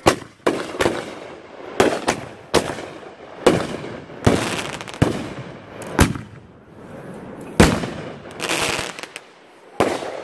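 Fireworks going off in quick, irregular succession: about a dozen sharp bangs, each with a short echoing tail, and a longer, noisier burst near the end.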